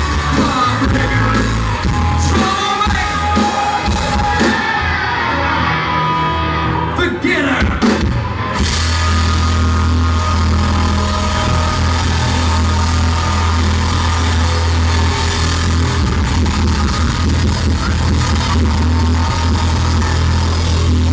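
Loud live country-rock band music, poorly recorded and heavy in the bass, with voices singing or shouting over it in the first half. About eight seconds in, a deep steady bass tone takes over under the music.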